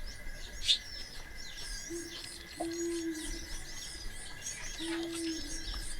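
A flock of small aviary finches, Gouldian finches among them, chirping and twittering continuously with many short overlapping calls. A low steady tone sounds three times under them, from about two seconds in.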